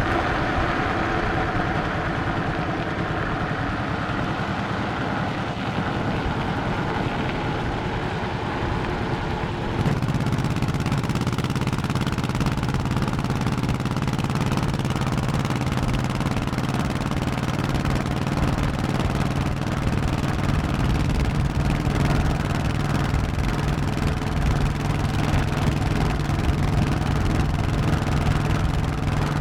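Honda 1100cc V-twin motorcycle engine running under way, with wind and road noise. About ten seconds in, the engine note and the hiss step up louder and then hold steady.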